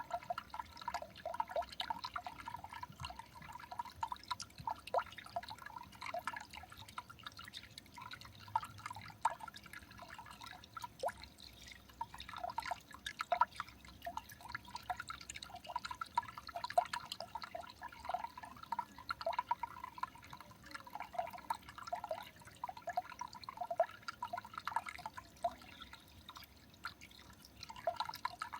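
Water dripping: a dense, irregular patter of small drips.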